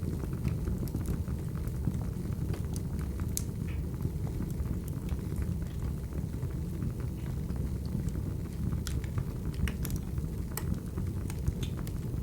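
Crackling wood fire: a steady low rumble of burning with scattered sharp crackles and pops.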